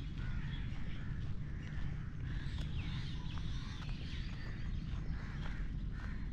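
Many birds chirping and calling, short rising and falling notes overlapping throughout, over a steady low rumble.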